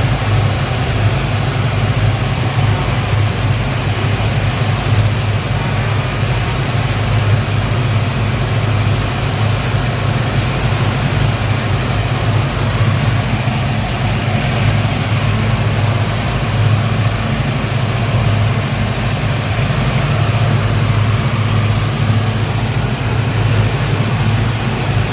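Speedboat engines running steadily underway, a constant low drone with a rushing noise over it that keeps an even level.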